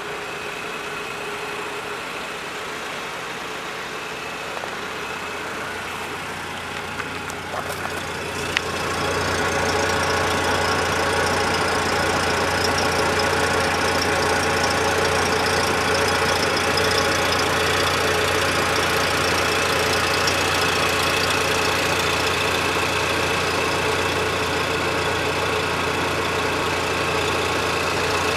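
1999 Volkswagen Passat B5's 1.6-litre eight-valve inline-four petrol engine idling steadily. A sharp click comes about eight and a half seconds in, and after it the idle is louder.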